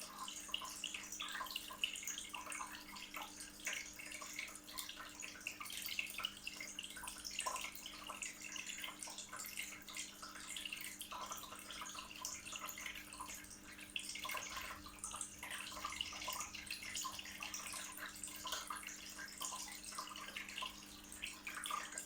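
Water from a floor-standing waterfall fountain trickling and splashing continuously into its bowl, with a steady low hum underneath.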